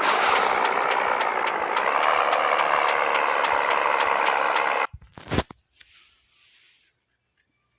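Scania 113 truck's diesel engine running loud, with a fast, regular ticking of about three to four a second over it. It cuts off abruptly about five seconds in, followed by a couple of knocks, then near silence.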